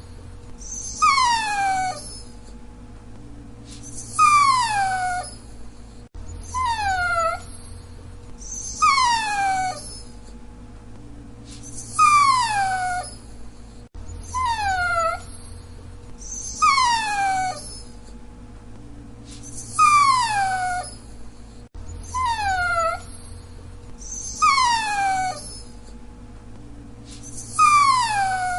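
A dachshund whining in high, drawn-out whimpers, each falling in pitch. One comes every two seconds or so, in a pattern that keeps repeating.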